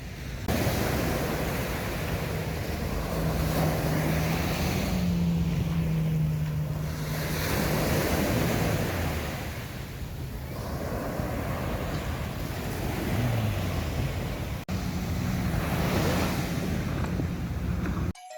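Sea surf breaking on a beach, the rush of the waves swelling and fading every few seconds, with wind on the microphone and a low hum underneath for a few seconds in the first half. The sound cuts off suddenly near the end.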